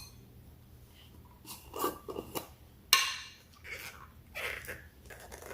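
Stretchy slime being pulled and squished by hand: a few short, irregular squishing noises, with one sharp snap about three seconds in.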